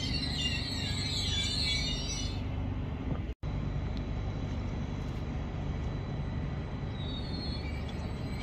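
Vy class 74 (Stadler FLIRT) electric multiple unit pulling slowly into the platform to stop, with a steady low rumble of wheels and running gear. High chirping squeals sound over the first two seconds. The sound cuts out for a split second a little after three seconds in.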